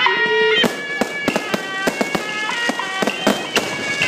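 Electronic firecrackers: a loudspeaker rig setting off sharp firecracker bangs, about two to three a second, over a loud procession melody of held notes that step up and down.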